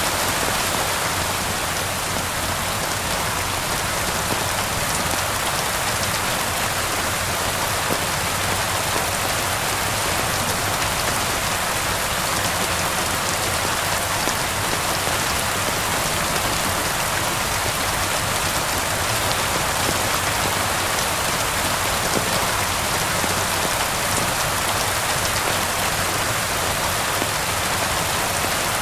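Steady rain falling: a dense, even hiss of drops that holds level throughout, with fine ticks of individual drops scattered through it.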